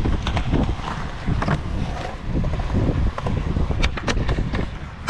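Skateboard rolling, its wheels rumbling over the ground, with sharp clacks of the board about four seconds in and again at the end.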